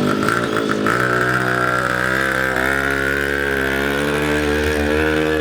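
Small two-stroke engine running steadily, settling into an even run about a second in, its pitch creeping slightly upward; it sounds like a weed whacker.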